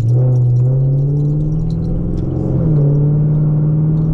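The exhaust of a 2010 Camaro 2SS's 6.2-litre V8, with long-tube headers and straight pipes, droning steadily as the car drives along. Its pitch creeps up slowly, with a brief dip and shift in pitch about two and a half seconds in.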